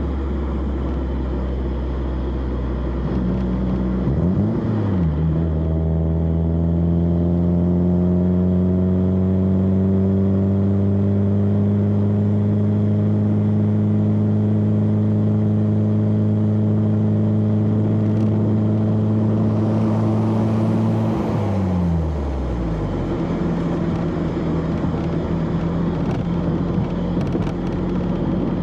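Exhaust of a 1991 BMW E30 316i's four-cylinder engine under way. The revs rise and then drop sharply about four seconds in, as at a gear change, then climb slowly and steadily for a long stretch before falling away as the throttle closes, settling to a lower steady note. Road noise runs underneath.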